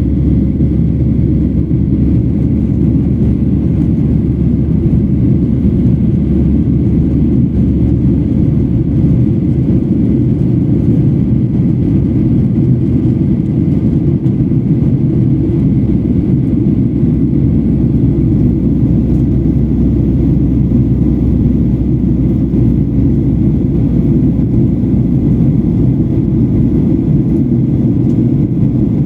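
Steady cabin noise inside a Boeing 737-800: a deep, even rumble of its CFM56-7B jet engines and airflow, with a faint steady whine above it.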